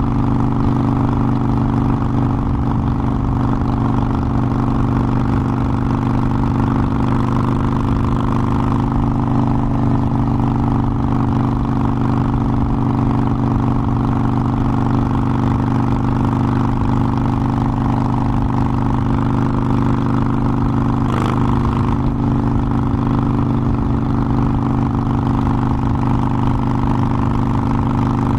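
Harley-Davidson Forty-Eight Sportster's 1200 cc air-cooled V-twin running at a steady, even engine speed while riding. A short click comes about three quarters of the way through.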